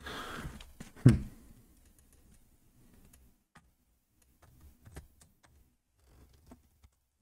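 Hands working the plastic case of an HP laptop around its screen hinge: a brief scuff, then one loud knock about a second in, then scattered light plastic clicks and taps.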